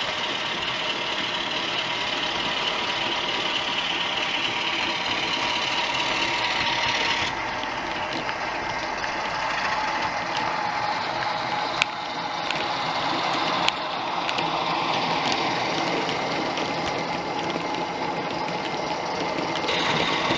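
OO gauge model trains running on the layout: a steady mechanical whirr and clatter of motors and wheels on the track, with a couple of sharp clicks. The sound changes abruptly about seven seconds in and again near the end.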